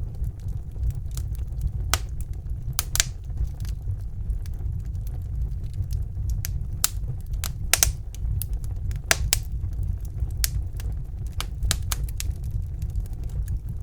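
Wood fire burning in a fireplace: a steady low rumble of the flames with irregular sharp crackles and pops, several of them louder around three and eight seconds in.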